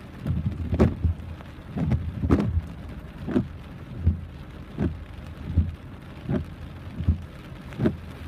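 Heavy rain falling, with a regular thud about every three-quarters of a second.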